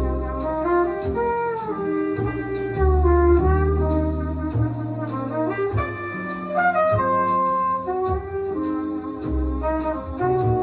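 Instrumental jazz with brass horns playing a melody over a bass line and light, regular ticks, played back through a 101D-45 single-ended tube amplifier.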